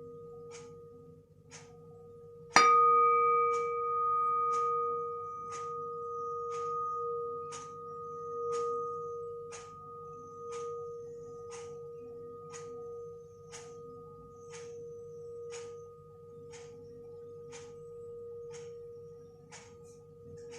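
A metal frying-pan lid is struck once, loudly, and rings on with a long, wavering tone that slowly fades. Under it a clock ticks steadily, about once a second.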